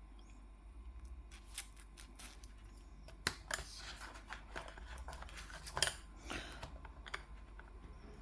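Quick, irregular scratchy strokes of a colouring tool on paper, the loudest two about three and six seconds in.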